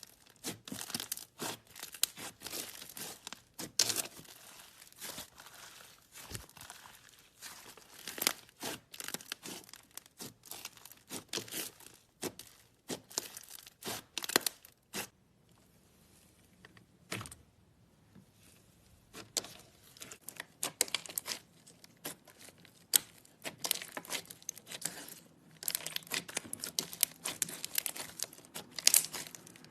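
Slime being squeezed and poked by hand, giving dense, irregular crackling and popping clicks, with a quieter pause about halfway through.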